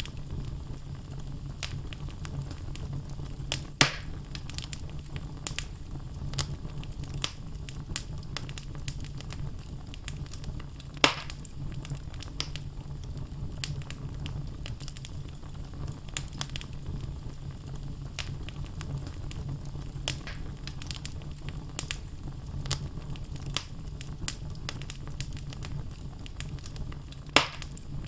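Wood fire burning in a fireplace: a steady low rumble and hiss with constant small crackles of the logs, and three louder pops, about four seconds in, around eleven seconds and near the end.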